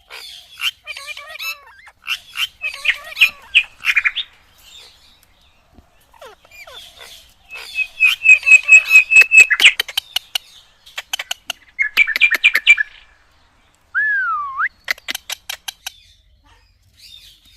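Indian ringneck parakeet calling in bursts of rapid, repeated chirps with sharp clicky notes, the fastest run in the middle, and one short whistle that dips and rises late on.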